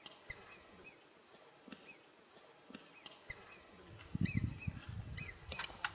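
Short, high chirping bird calls repeated every half second or so, with a few sharp clicks; from about four seconds in, an irregular low rumble on the microphone joins in and is the loudest sound.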